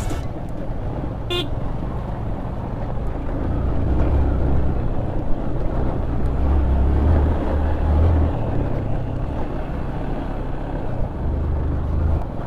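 Motorcycle on the move: steady engine and road rumble, with a short horn beep about a second and a half in.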